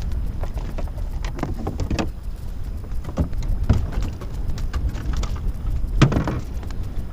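Water slapping and splashing against a kayak hull over a steady low rumble of wind on the microphone, with scattered knocks and one louder splash about six seconds in.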